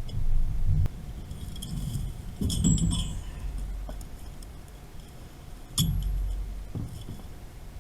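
Scattered metallic clinks and knocks from hand tools and pipe fittings being handled during valve replacement work, with the loudest ones about two and a half seconds in and near six seconds, over a low rumble.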